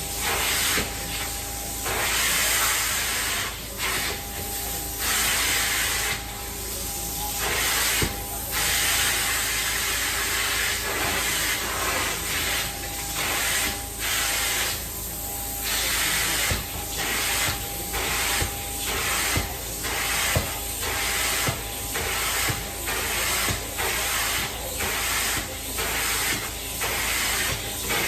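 Carpet-cleaning extraction wand hissing as it sprays and vacuums in repeated strokes. The hiss breaks off briefly between passes, more often in the second half, over a steady low hum.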